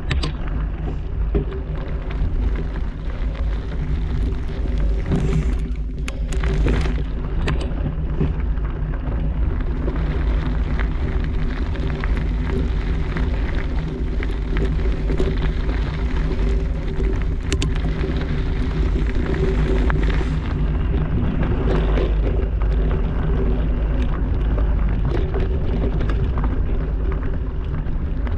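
Heavy wind rumble on the microphone from riding a rough trail, with a steady mechanical hum underneath and scattered clicks and rattles from the bumpy ground.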